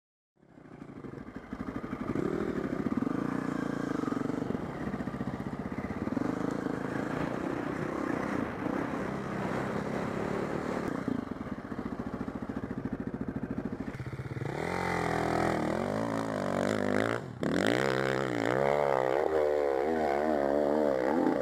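Four-stroke single-cylinder enduro dirt bike engine running under load; about two-thirds of the way in the revs climb and swing rapidly up and down as the throttle is worked hard.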